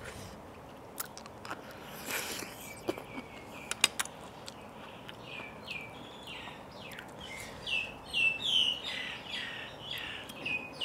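A small bird chirping over and over from about two seconds in: a run of short notes, each sliding downward, louder from about eight seconds. A few sharp clicks from eating and handling food at the plate come in the first four seconds.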